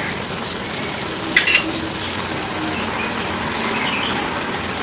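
Egg bhurji in tomato masala sizzling steadily as it fries in an aluminium kadai. About a second and a half in there is a brief metallic clatter of the steel spoon against the pan.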